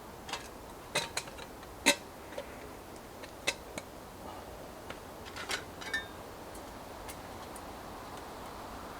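Scattered light clicks and knocks at irregular intervals over a steady hiss, the sharpest about two seconds in, with a brief faint ringing tone about six seconds in.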